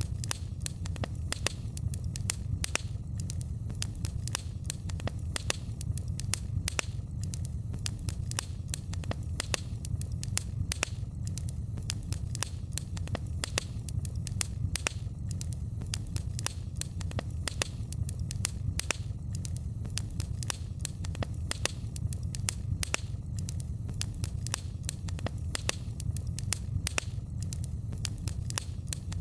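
Wood fire crackling: many small, irregular sharp pops and snaps over a steady low rumble of burning.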